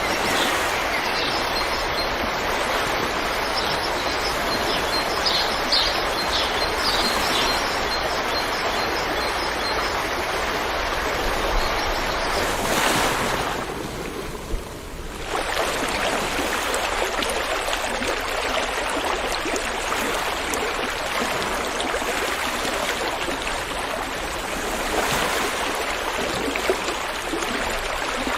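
River water flowing in a steady, loud rush. Birds chirp faintly in the first several seconds, and the rush briefly dips quieter about 13 seconds in.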